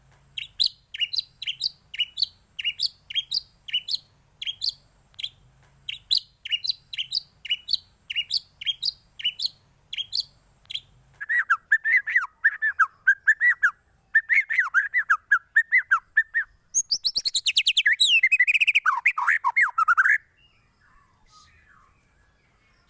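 Songbird song played as a lure track to set off a white-rumped shama. First comes a run of sharp falling chirps, about two a second, then two bouts of lower warbling. Last is a fast high trill that drops in pitch and stops short about 20 seconds in.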